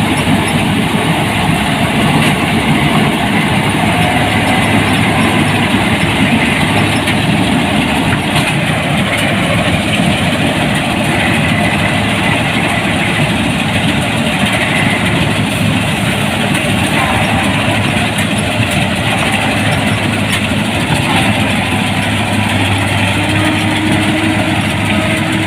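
Rice combine harvester running with a steady, dense mechanical noise from its engine and threshing machinery, unbroken throughout.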